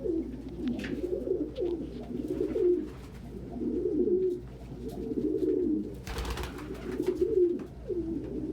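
A flock of domestic pigeons cooing, many low warbling coos overlapping without a break. A short rustling burst comes about six seconds in.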